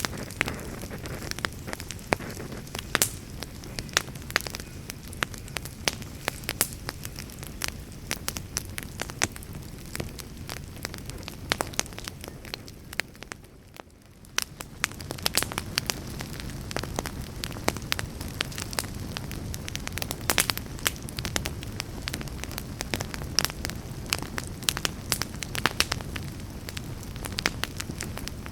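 Campfire crackling: many sharp pops and snaps over a steady low hiss of burning. About halfway through, the sound fades down briefly and then returns.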